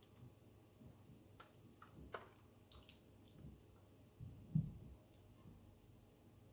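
Quiet kitchen handling: a few light clicks and taps, then a soft low thump about four and a half seconds in, the loudest sound.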